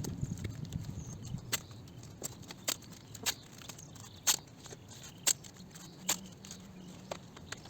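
Scattered sharp clicks and crackles at irregular intervals over a low rumble: handling noise of work on the car, such as masking tape and paper being laid.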